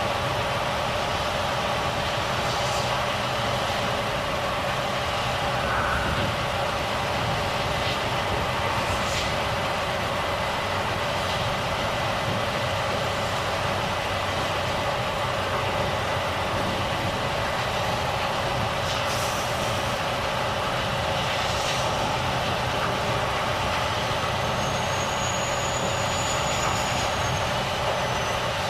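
Volvo FH truck running steadily on the road, a constant drone with a steady hum. A few brief high hisses come through at intervals, and a faint high whistle near the end.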